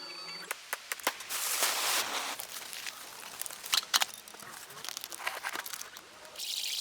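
Crinkling and rustling handling noise with many scattered sharp clicks, loudest in a stretch about a second in.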